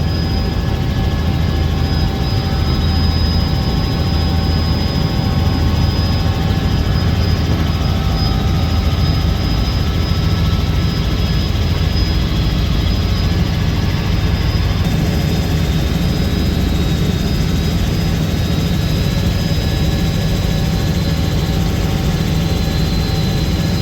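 Helicopter in flight heard from inside the cabin: a steady, loud, low rotor and engine drone with a thin high whine held over it.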